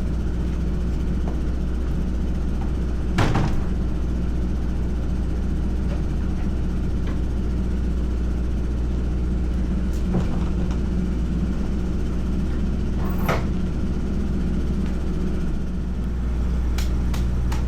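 Heavy diesel engine idling with a steady low hum, with a few sharp metallic knocks and clicks from the work around it, the loudest about 3 s in.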